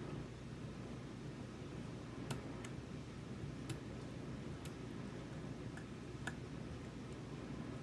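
Small, sharp metallic clicks of a lock pick working the pins inside a Sargent Signature lock cylinder, about half a dozen spread irregularly over several seconds, over a low steady background hum.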